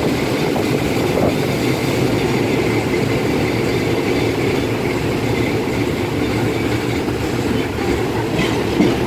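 Steady running noise of a train, heard from aboard as it moves along the rails.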